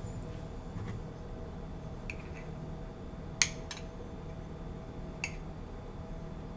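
A few short, sharp clinks of kitchenware, the loudest about halfway through, over a faint steady hum.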